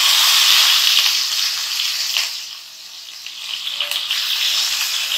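Ginger-garlic paste sizzling as it hits hot oil in a wok, loudest in the first two seconds, dying down in the middle and picking up again, with a few light taps.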